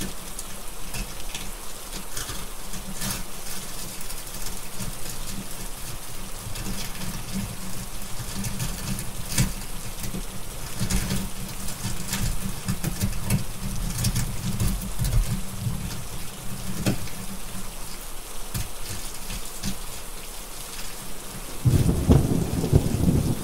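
Steady rain with scattered sharp drop ticks, over rolling thunder that rumbles through most of the stretch, eases off, and then swells into a louder rumble near the end.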